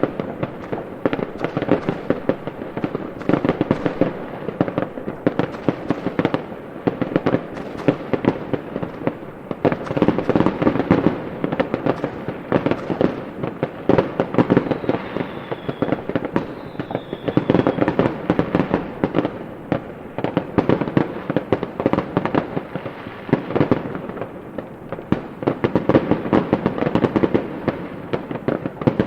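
Fireworks going off in a dense, continuous barrage of bangs and crackles, with two brief high whistles about halfway through.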